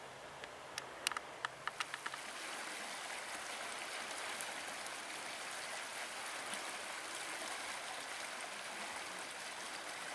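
A few sharp clicks in the first two seconds, then a steady rushing of flowing water.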